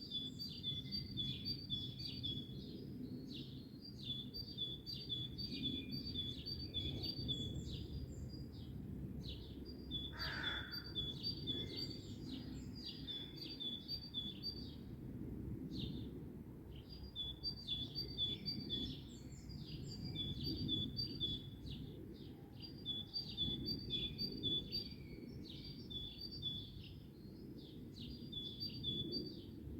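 Songbirds chirping and singing in quick repeated phrases, with one lower call about ten seconds in, over a steady low background rumble.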